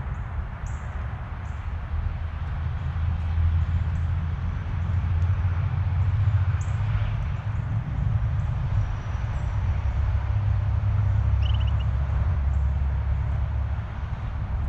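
Steady low rumble that swells through the middle and eases near the end, with faint high bird chirps and ticks over it and one short quick trill late on.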